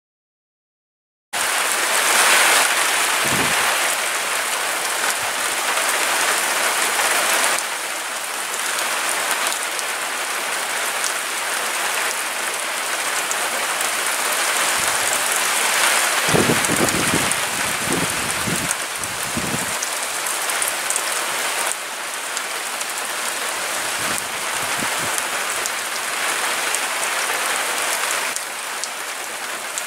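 Storm-force gusty wind, heard as a steady loud rushing hiss that starts abruptly about a second in. Gusts buffet the microphone with low rumbles a few times, most heavily around the middle.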